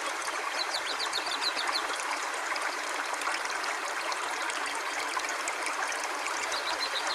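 River water flowing steadily, an even rush, with a quick run of high ticks about half a second in.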